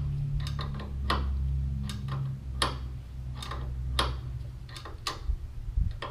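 Sharp clicks, about one a second and unevenly spaced, over a low steady hum.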